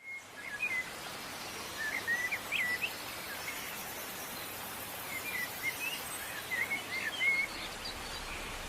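Birds chirping in short, quick clusters of rising and falling notes over a steady hiss of forest ambience.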